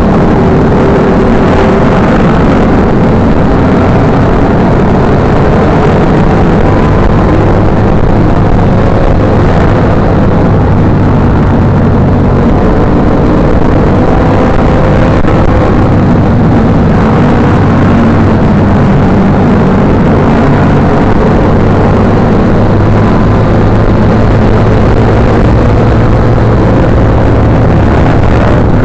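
Motorcycle engine running steadily while riding, its pitch drifting slowly up and down.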